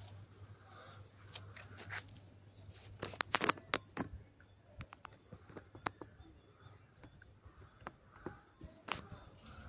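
Broom sweeping and gathering dry leaves on the ground: irregular scratchy strokes, heaviest about three to four seconds in.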